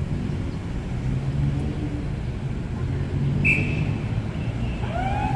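Steady low rumble of traffic, with a short high beep partway through. Near the end a siren starts winding up in pitch and then holds, the signal that the earthquake drill has begun.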